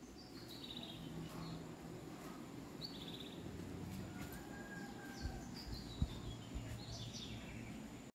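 Small birds singing several phrases of quick chirps that step down in pitch, over steady low background noise. A soft low thump comes about six seconds in.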